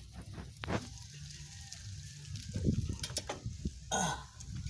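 Scattered knocks and clicks of metal parts and tools being handled while a motorcycle sprocket hub with a freshly fitted bearing is put back in place.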